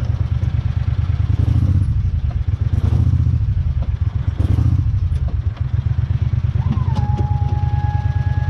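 Utility vehicle's engine running steadily with a rapid low pulse, rising briefly three times, with some clatter and knocks. About seven seconds in, a steady high whine comes in after a short rise in pitch and holds.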